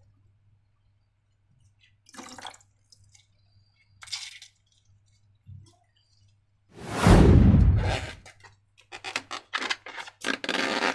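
Slime being handled: a few short wet squishes, then one loud, long squelch about seven seconds in, followed by a quick run of short squishing sounds near the end.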